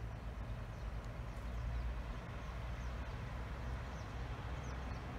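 Low steady rumble of an approaching regional passenger train, with birds chirping faintly.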